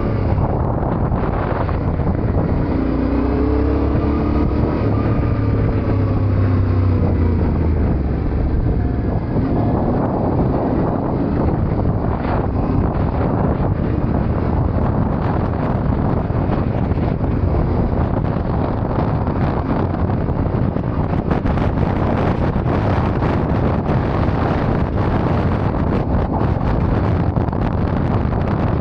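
Yamaha Ténéré 700's parallel-twin engine running under way, buried in heavy wind noise on the microphone. The engine note rises and falls between about two and nine seconds in as the revs change.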